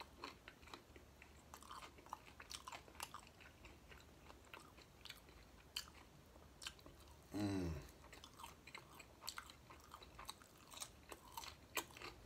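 Close-up chewing of a crispy fried taco shell: soft crunches and mouth clicks. About seven and a half seconds in, a brief low vocal sound that falls in pitch.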